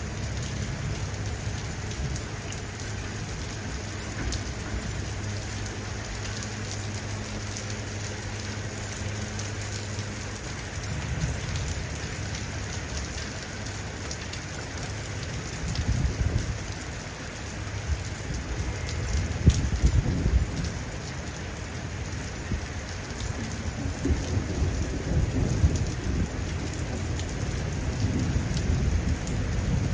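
Steady heavy rain falling, with thunder rumbling low several times, the loudest rolls coming about two-thirds of the way through.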